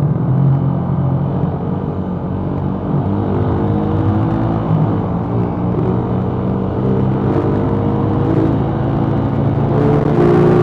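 Suzuki Raider R150 motorcycle engine running under way, its pitch rising as it accelerates a few seconds in and again near the end.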